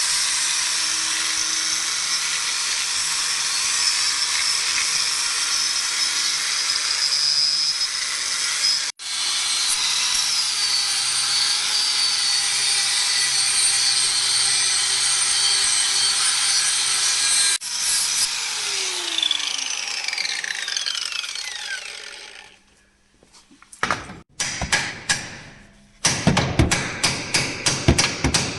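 An electric power tool runs steadily under load, stops briefly twice, then spins down with a falling whine. After a short pause come rapid, regular knocks, about three a second.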